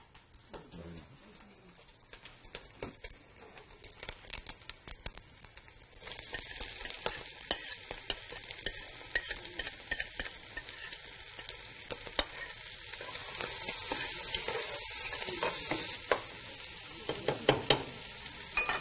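Diced bacon frying in a metal pot as chopped onion is tipped in and stirred: a steady high sizzle that grows louder about six seconds in, with the spoon clicking and scraping against the pot.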